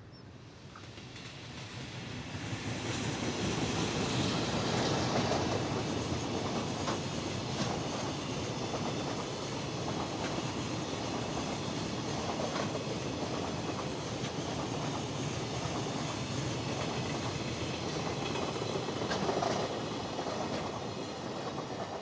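Freight train passing close by: the wagons' wheels rumble and clatter over the rail joints. It grows louder over the first few seconds, then holds steady.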